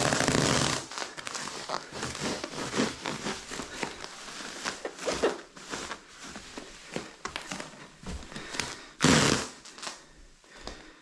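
Adhesive carpet-protection film being pulled off its roll and pressed down: a loud tearing rasp at the start, then scattered crackling and rustling, and another short rasp about nine seconds in.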